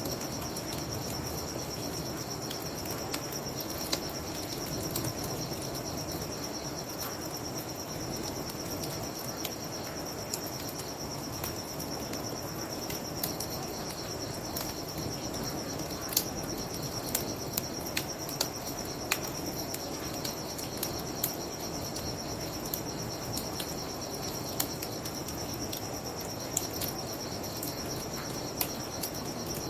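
Crickets trilling steadily and high over the crackle of a wood fire, with sharp pops scattered throughout and a cluster of louder ones past the middle. Underneath runs a steady, even low rushing noise.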